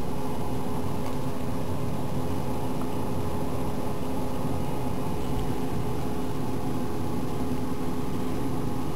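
Steady mechanical hum with a few constant tones in it, unchanging throughout.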